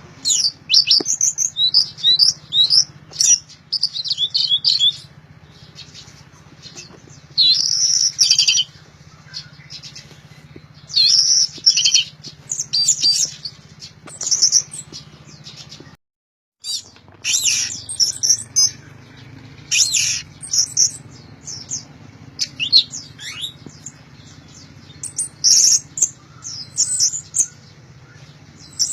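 Orange-headed thrush singing loudly in full song: quick, varied phrases about a second long, high in pitch, coming again and again with short pauses between. A steady low hum runs underneath, and the sound cuts out briefly about halfway through.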